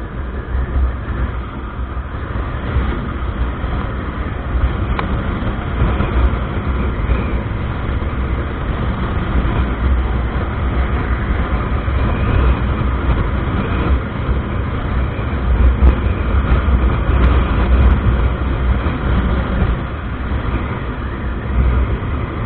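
Motorcycle underway: wind rushing over the microphone in a heavy, fluctuating rumble, with steady engine and road noise underneath.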